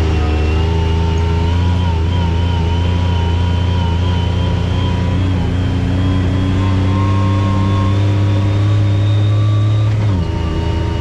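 ATV engine running steadily while riding the trail, its pitch climbing slowly, then dropping suddenly near the end.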